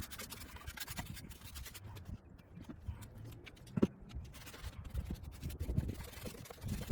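Scrubbing down a Baja Warrior mini bike: repeated scratchy scrubbing strokes, with a sharper knock about four seconds in.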